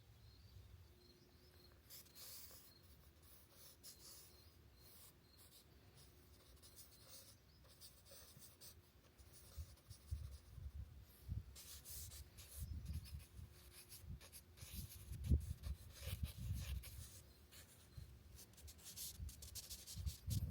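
Sketching on paper: a drawing tool scratches across the sketchbook page in short, irregular strokes, with soft low knocks of handling in the second half.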